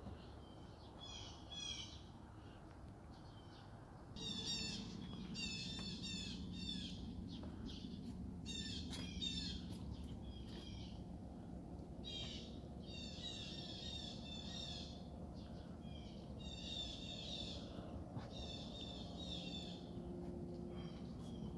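A songbird singing, repeating a high, quick phrase of about a second many times over. A steady low hum starts about four seconds in and runs underneath.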